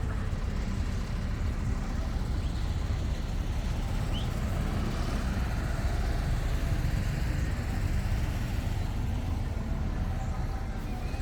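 Steady outdoor background noise, mostly a low rumble with a fainter hiss above it, holding an even level throughout.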